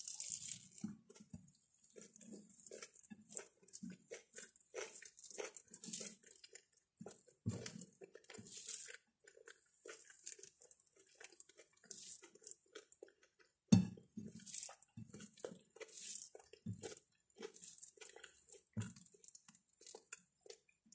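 Close-miked eating sounds: irregular chewing and crunching of mouthfuls of rice and curry eaten by hand, with one sharper knock about two-thirds of the way in.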